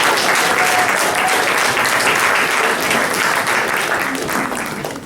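Congregation applauding, the clapping dying away near the end, with a few voices calling out at the start.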